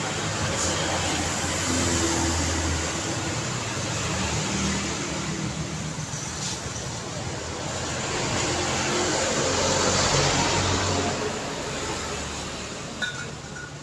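Daytime road traffic: vehicles passing continuously with engine hum and tyre noise, swelling as vehicles go by about two seconds in and again around ten seconds. Near the end there is a brief, short high-pitched beep.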